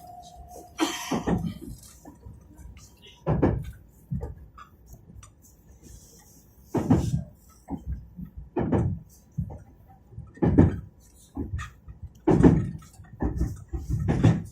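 Inside a Meitetsu 2200 series electric train on the move: a low running rumble with short, irregularly spaced knocks and clunks, roughly one to two seconds apart.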